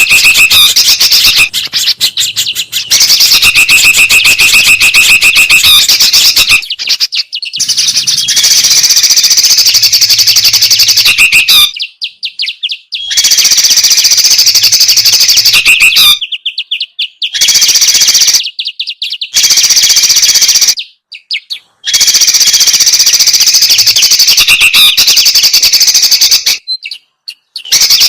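Bird-lure recording of songbirds calling noisily in dense, overlapping chattering phrases, very loud. It breaks off abruptly into brief silences several times where the recording is spliced.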